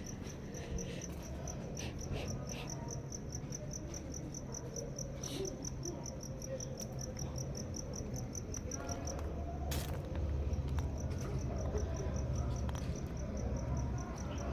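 Cricket chirping, a steady high pulse about five times a second, which stops about nine seconds in. A low steady hum runs underneath, and a single sharp click comes shortly after the chirping stops.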